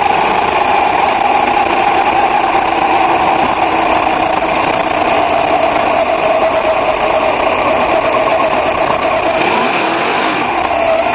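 Racing car engine running at steady, high revs, its pitch sagging slightly over the seconds, with a brief rush of hiss about nine and a half seconds in.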